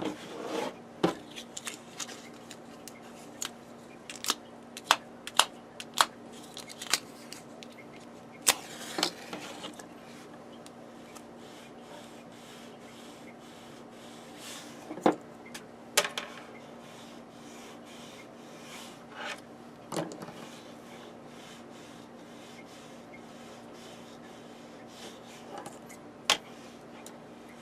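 Scattered sharp clicks and light taps from hands handling small wires and tools, busiest in the first ten seconds and sparser after, over a steady low hum.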